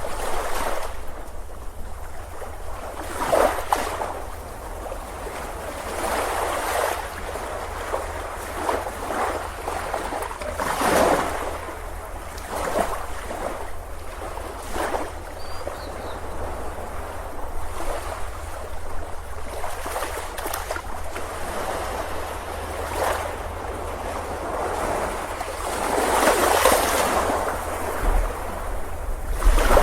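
Ocean surf breaking and washing up on a beach, in surges every few seconds. Under it runs a steady low wind rumble, which grows stronger near the end as wind hits the microphone.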